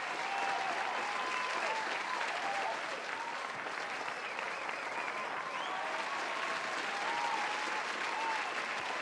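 Crowd applauding steadily, dense clapping with voices cheering and whooping over it.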